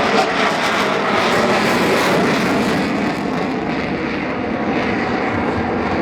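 Jet engine noise of an F-15 fighter flying a display pass: a loud, steady rushing noise.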